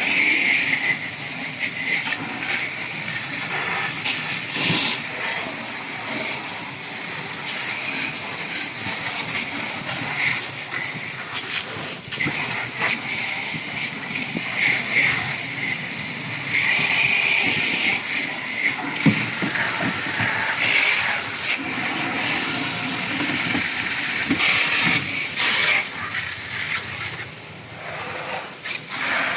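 Steady hissing noise with scattered clicks and knocks.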